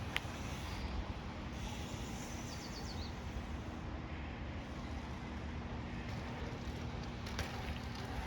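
Steady rushing of river rapids, with a low rumble underneath and a few short high chirps about two to three seconds in.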